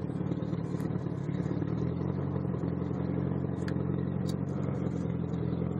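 Pickup truck engine running steadily at low revs as the truck creeps forward slowly, with a slight change in its tone about two seconds in.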